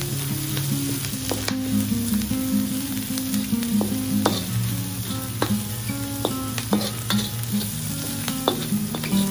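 Chopped garlic, shallots and dried shrimp sizzling in hot oil in a wok as they are stir-fried with a spatula. A steady sizzle is broken by short clicks about once a second.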